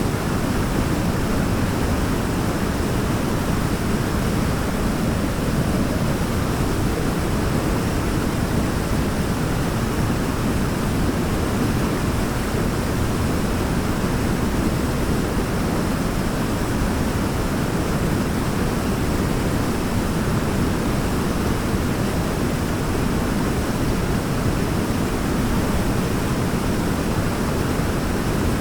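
Waterfall: a steady, even rush of falling water, heaviest in the low end, with no change throughout.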